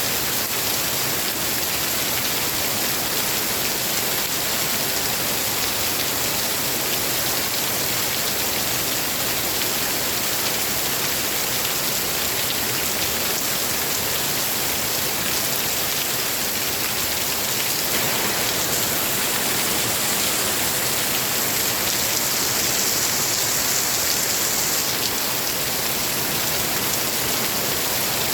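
Steady rain falling, an even unbroken hiss of many drops with no thunder.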